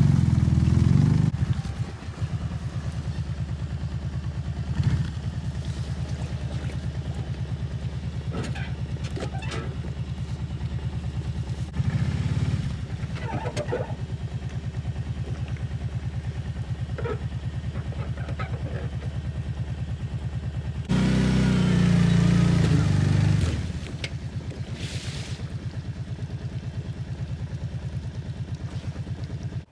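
Old outboard motor on an abandoned jon boat running at a steady idle after being started on choke. It is revved up briefly at the start, again about twelve seconds in, and for a couple of seconds past the middle, then shuts off at the very end.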